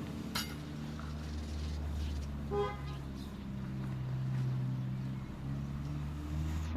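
A motor vehicle's engine running steadily at low revs, with a short horn toot about two and a half seconds in and a sharp click just after the start.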